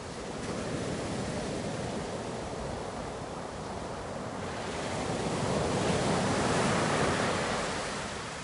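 Ocean surf: waves washing onto the shore, swelling a little about a second in and more strongly from about five to seven seconds, then drawing back.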